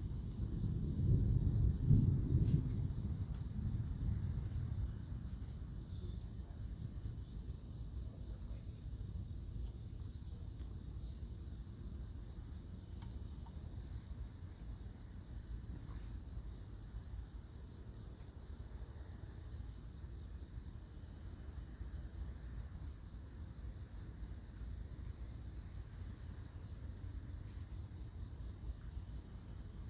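Night chorus of crickets chirping steadily in a high, fast-pulsing drone. A low rumble of thunder swells in the first seconds, loudest about two seconds in, then fades to a faint low rumble.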